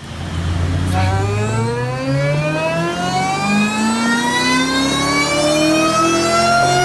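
Supercharged 4.6 L V8 of a 2003 Mustang Cobra, on its stock Eaton blower with a 2.76 pulley, pulling hard under load on the dyno. From about a second in, the engine note and a high supercharger whine climb together steadily in pitch.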